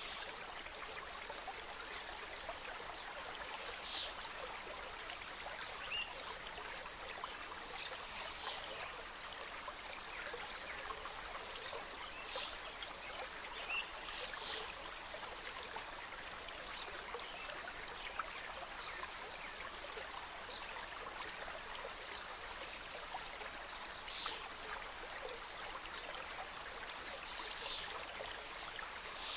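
Mountain stream cascading over rocks: a steady rush of flowing water, with short brighter spatters standing out here and there.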